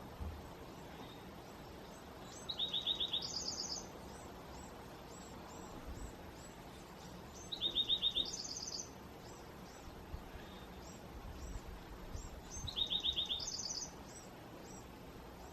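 A songbird repeating a short trilled song three times, about every five seconds: a quick run of notes followed at once by a higher run. Faint, short high chips sound between the songs over a steady background hiss.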